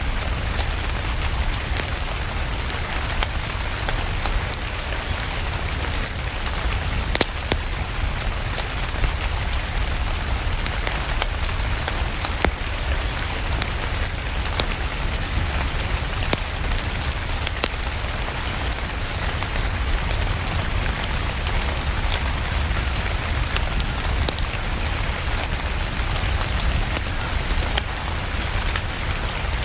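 Steady rain, with scattered sharp crackles and pops from a wood fire and a low rumble underneath.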